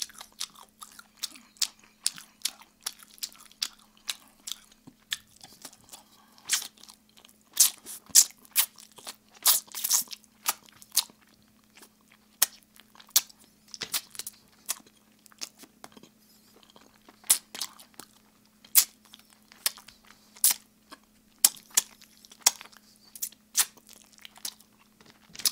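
Close-miked crunching and chewing of Kyochon Red Combo fried chicken, with sharp, irregular crunches every second or so.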